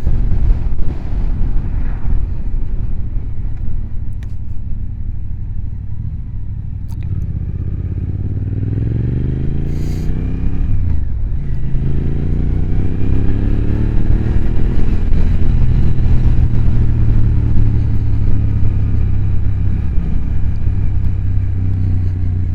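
Motorcycle engine running with heavy wind rumble from riding. About eight seconds in it accelerates: the engine pitch rises, drops briefly at a gear change, rises again, then settles to a steady cruise.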